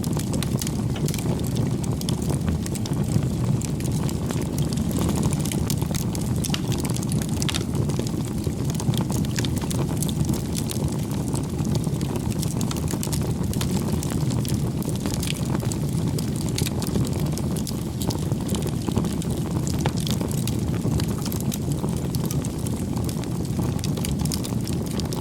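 Wood campfire burning: a steady low rumble of flames with frequent small crackles and pops scattered throughout.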